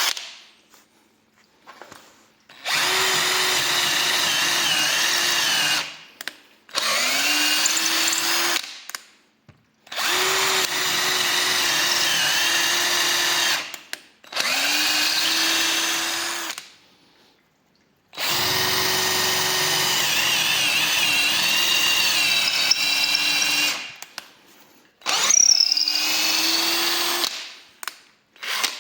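Parkside PABS 20 Li G8 cordless drill's motor running in six separate trigger bursts of a few seconds each, with a steady whine. Several bursts rise in pitch as they spin up, and a sharp click comes right at the start.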